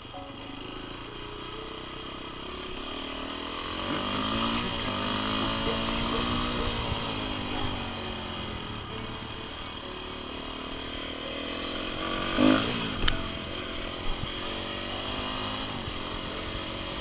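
Four-stroke enduro dirt bike engine running off-road, its pitch rising and falling as the throttle is worked, loudest a few seconds in, with a short sharp rev about twelve seconds in.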